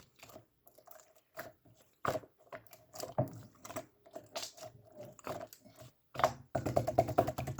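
Slime being squished and pressed by hand, making scattered sticky clicks and small pops, then a quick run of rapid pops near the end.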